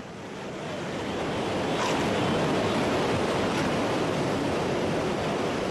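Ocean surf: a steady wash of waves, swelling over the first couple of seconds and then holding even.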